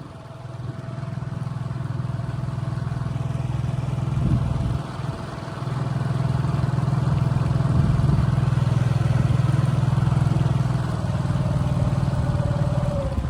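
New 7 hp four-stroke outboard motor, still being broken in, running at low throttle; it drops off briefly about four and a half seconds in, then runs harder for several seconds and eases back a little near the end.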